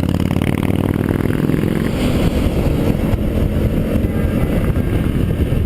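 Engine of a motorcycle or quad bike running under throttle: a dense, steady engine drone with little change in pitch, cut off abruptly at the end.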